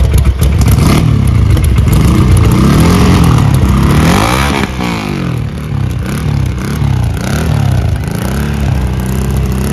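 Ducati Monster 1200's L-twin engine under way, the revs rising and falling repeatedly: one long pull up and back about three seconds in, then a run of shorter rises and drops.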